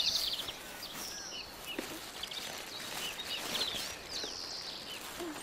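Several small birds chirping, with many short high calls and quick trills over a faint outdoor background.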